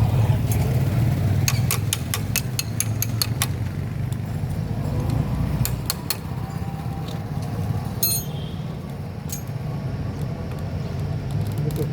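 Metal hand tools clicking and clinking against motorcycle engine parts while a plate is being unbolted, in a quick run of sharp clinks about a second in, then a few single clicks. A steady low hum runs underneath.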